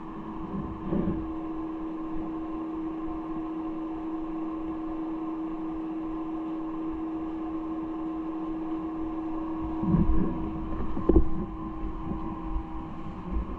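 A steady mechanical hum made of several held tones over a constant noise, with a few knocks about ten seconds in.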